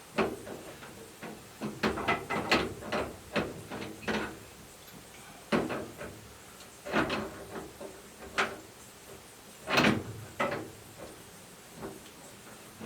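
Irregular clunks, knocks and rattles of a homemade hose assembly and its fittings being handled and connected to a tankless water heater's cold-water inlet, the loudest clunk a little before ten seconds in.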